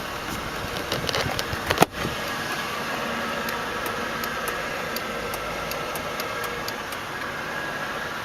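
The 2000 Lincoln Town Car's 4.6-liter V8 idling steadily, with one sharp thump about two seconds in and faint, regular ticking about three times a second.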